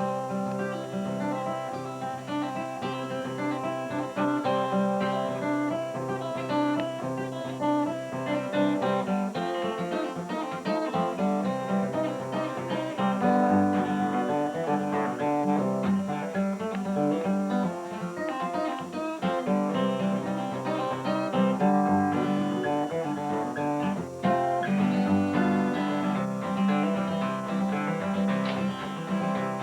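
Acoustic guitar played solo: the introduction to a song of the player's own, strummed and picked without singing.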